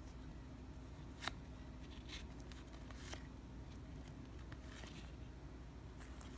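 Faint rustles and flicks of cardboard trading cards being handled and leafed through, with one sharper snap about a second in, over a low steady room hum.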